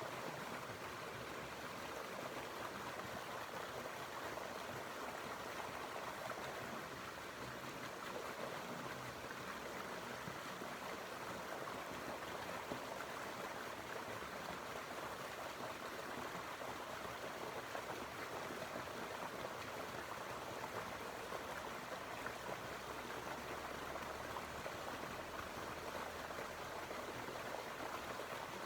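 Stream water flowing over rocks, a steady babbling rush.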